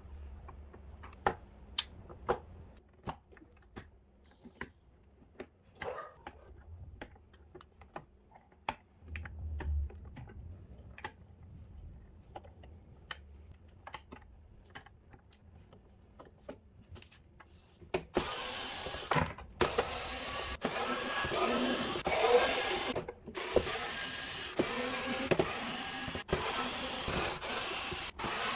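Small clicks and taps of tools and parts being handled during repair work on a DJ controller. About two-thirds of the way in, a continuous motor whirr starts and stops several times, like a small power tool in use.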